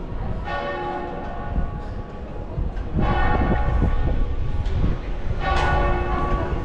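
A church bell tolling, struck three times about two and a half seconds apart, each stroke ringing on and fading, over a steady low rumble.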